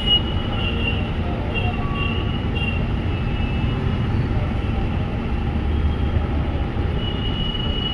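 Motorcycle riding through city traffic: a steady engine and road rumble, with several short high-pitched tones from the traffic around it, the longest near the end.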